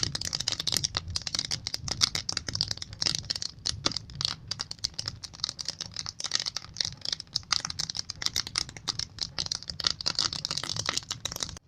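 Wood fire crackling in a fireplace: a dense, irregular run of small pops and snaps.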